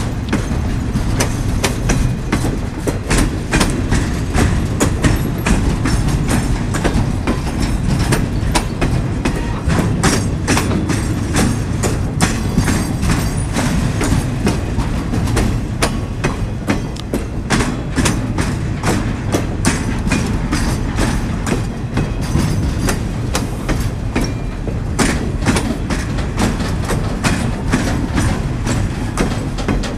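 Flatcars of a freight train loaded with track-maintenance machinery rolling past, with a steady low rumble and wheels clacking over rail joints in quick, irregular clicks.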